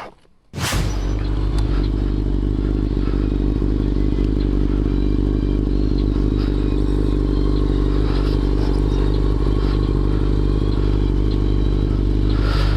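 Motorcycle engine running at a steady, unchanging speed, heard close from on the bike. It cuts in sharply about half a second in after a brief gap.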